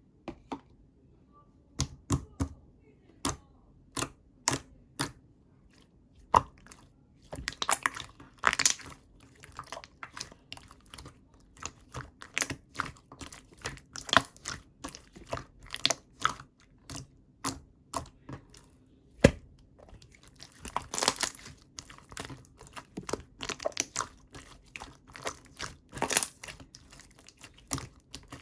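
Heavy, chewy slime being handled: an irregular run of sticky clicks and pops, with denser crackly stretches about eight, twenty-one and twenty-six seconds in.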